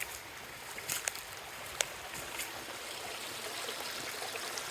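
Small stream flowing with a steady trickling rush, joined by a couple of short sharp ticks about one and two seconds in.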